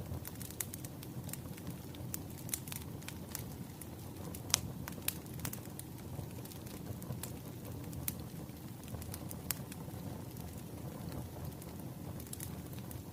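Burning firewood crackling: a steady low rush of flames with sharp, irregular pops and snaps, the loudest about four and a half seconds in.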